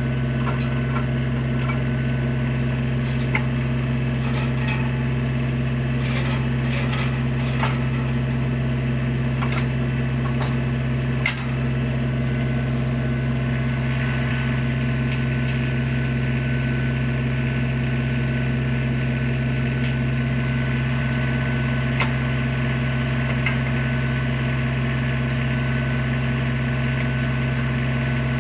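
Tractor engine idling steadily, with scattered light clicks and knocks over it.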